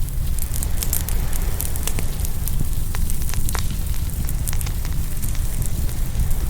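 Open wood fire crackling, with frequent sharp pops and snaps scattered unevenly over a steady low rumble.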